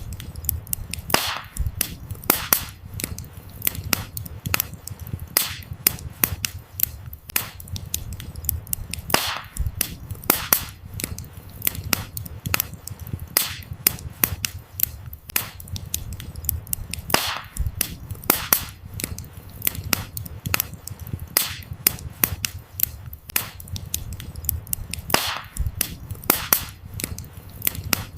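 Wood campfire crackling, with frequent sharp pops of burning firewood, a few louder cracks every second or two, over a low steady rumble.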